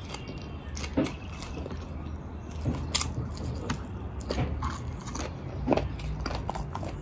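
A person chewing a mouthful of rice and pork, with irregular small mouth clicks.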